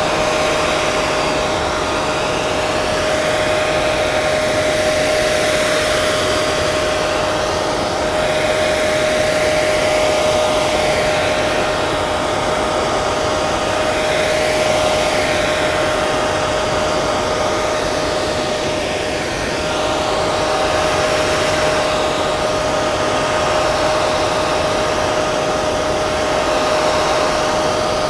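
Hair dryer running steadily: a constant rush of air with a steady whine, the hiss shifting slowly in tone.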